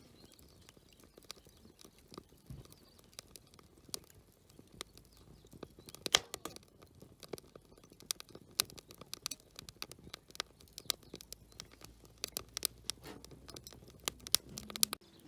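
Wood campfire crackling, with irregular sharp snaps that come thicker from about six seconds in.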